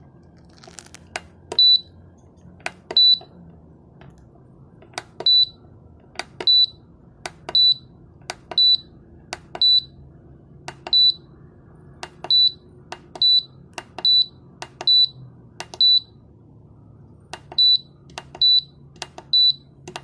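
Gemini GD15W dehumidifier's control-panel buzzer giving a short high beep after each click of a button press, about seventeen times at uneven intervals. A faint steady hum lies underneath.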